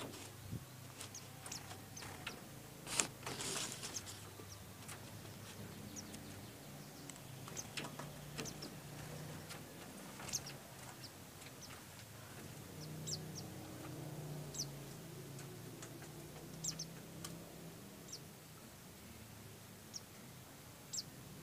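Short, high, scattered chirps of white-eye birds (pleci) over a low steady hum, with a brief rustle about three seconds in.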